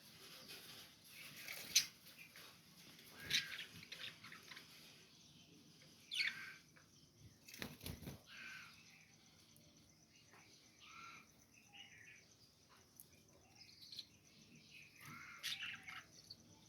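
Budgerigars chirping in short, scattered calls: a few sharper chirps stand out over softer chatter.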